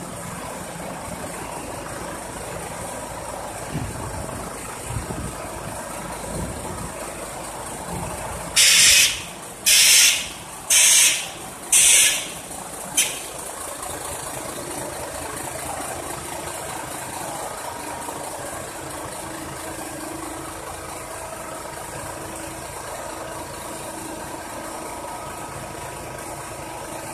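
Truck engine idling steadily. About nine seconds in, four loud hisses of released air follow each other about a second apart, then a short fifth one.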